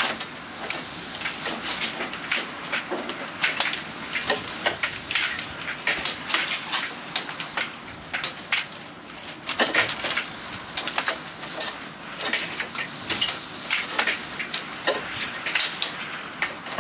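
Window blinds blown by gusting wind, their slats clattering and knocking irregularly against the window, with the rush of wind through the open window swelling and fading in gusts.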